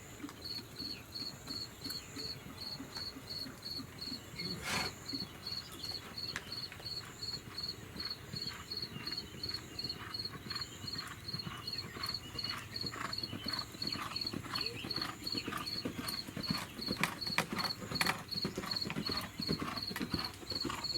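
Insects chirp in a steady, high, pulsing trill, about three pulses a second. A horse's hoofbeats clip-clop over it, growing more frequent and louder from about halfway through, with one sharp knock near the start.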